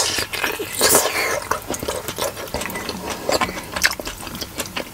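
A person biting into and chewing a steamed pork momo dumpling dipped in tomato achar, mouth sounds coming as a run of quick, irregular smacks and clicks.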